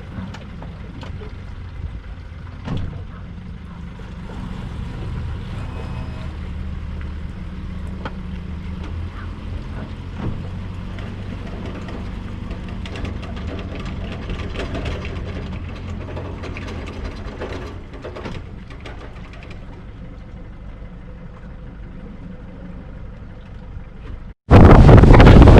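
A boat's outboard motor running with a steady low hum, with a few light knocks over it. About a second before the end a much louder rush of noise cuts in suddenly.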